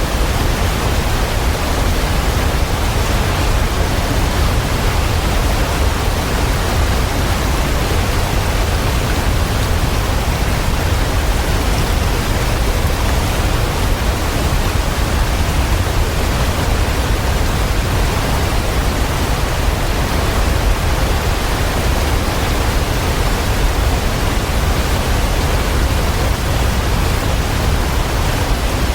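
Waterfall: a steady, unbroken rush of falling water, heaviest in the low end, with no change in level.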